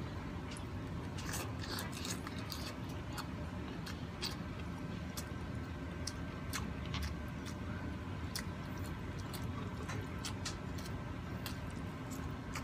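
A person chewing and eating by hand, with many small scattered clicks and mouth smacks over a steady low background noise.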